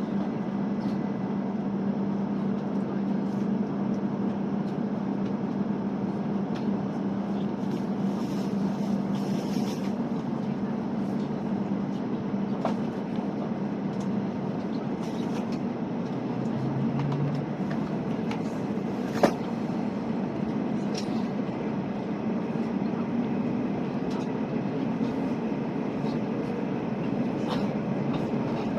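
Hokuriku Shinkansen train running, heard from inside the passenger car: a steady rumble with a low hum in the first several seconds. There is a single sharp click about 19 seconds in.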